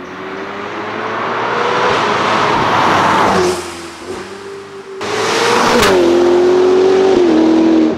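Ferrari F8's twin-turbo V8 through a Novitec exhaust, run hard: the engine note climbs in pitch and loudness over the first three seconds, then falls away. About five seconds in it comes back loud all at once and steps down in pitch twice.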